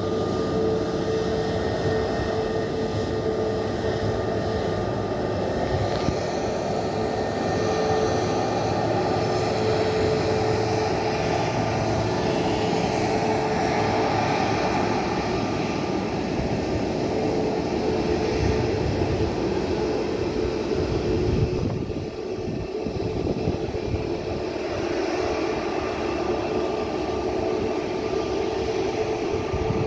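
Airbus A321neo jet engines running with a steady whine of several held tones over a broad rush. The level drops briefly about two-thirds of the way through, then picks up again.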